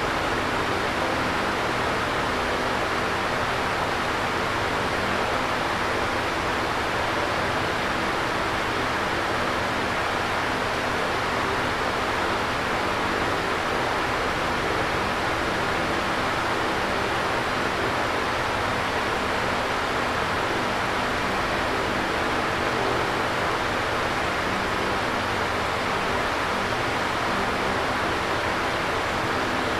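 Electric fan running steadily: an even rush of moving air with a faint steady hum underneath.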